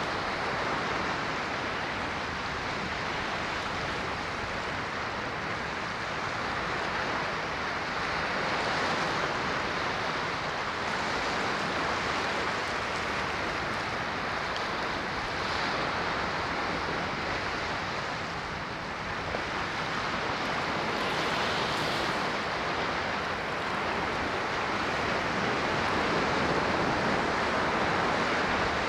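Ocean waves washing onto a shore, a steady rushing surf that swells and eases slowly, with a short lull about two-thirds of the way through.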